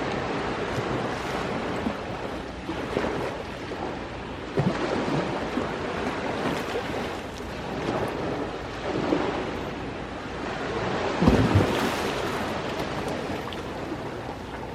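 Ocean surf washing continuously onto the shore, swelling and ebbing every few seconds, with a heavier surge about eleven seconds in.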